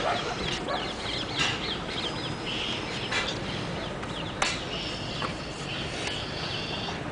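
Birds chirping in quick, short repeated calls, with a few sharp clicks.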